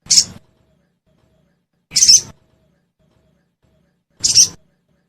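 Sogon bird giving three short, harsh chirping calls about two seconds apart.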